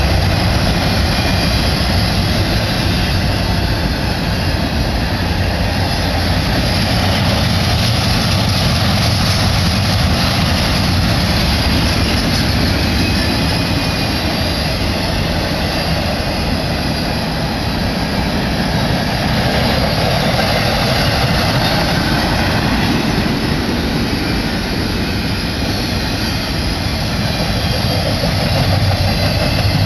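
Freight train of empty intermodal well and spine cars (bare tables) rolling past on the mainline: a steady, loud rumble of steel wheels on rail that holds at an even level throughout.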